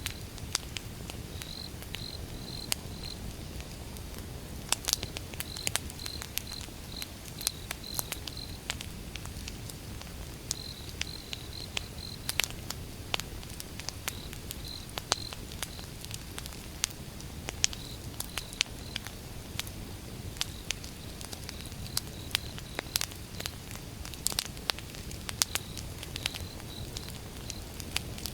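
Wood fire burning, crackling with irregular sharp pops over a steady low rumble. A high-pitched chirping repeats in short pulses behind it throughout.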